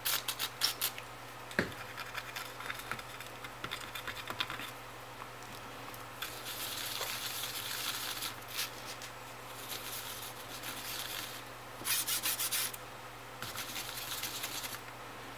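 Rubbing and scratching as old, hardened thermal paste residue is wiped and scrubbed off a graphics card's GPU chip, in short quick strokes with hissy stretches between.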